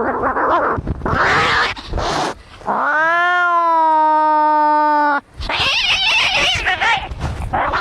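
Angry cats fighting: harsh, noisy screeching bursts, then one long yowl that rises in pitch at its start and holds for about two and a half seconds, then more harsh noisy screeching.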